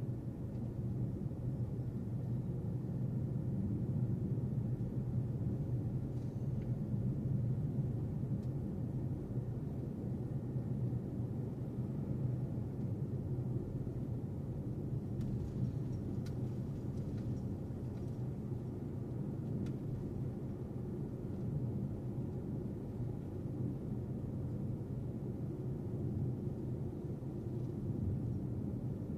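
Car driving at steady speed: a constant low rumble of road and engine noise.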